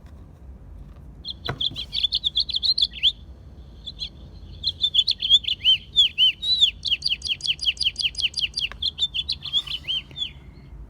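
House finch singing: two long, rapid warbling songs, a short one about a second in and a longer one from about the middle that includes a fast run of evenly repeated notes.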